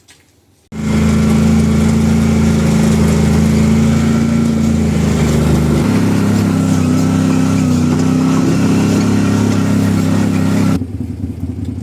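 An engine running close by at a steady idle, starting abruptly just under a second in. Its pitch steps slightly higher about halfway through, and it drops in level near the end.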